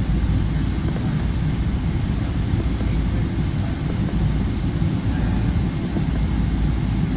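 Boeing 777-200ER airliner's jet engines making a steady, deep rumble with an even roar over it.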